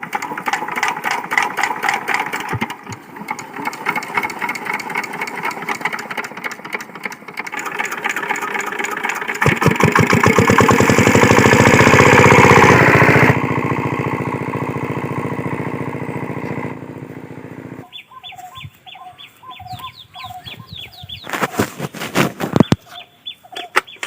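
Diesel engine of an irrigation water pump set running with rapid, regular firing pulses, loudest and deepest for a few seconds about ten seconds in. From about eighteen seconds the engine gives way to short, repeated bird calls and clicks.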